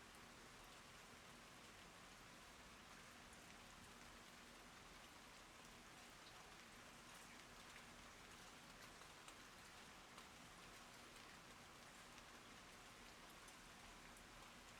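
Faint, steady rain falling on garden plants, an even hiss with scattered ticks of individual drops.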